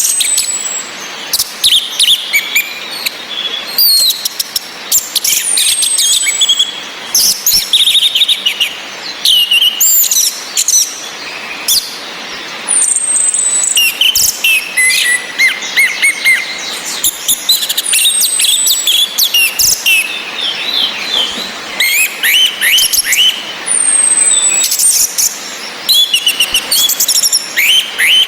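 Orange-headed thrushes calling and singing: thin high whistles that slide downward, recurring every few seconds, among quick chirps and trilled song phrases. Underneath runs a steady hiss of rain.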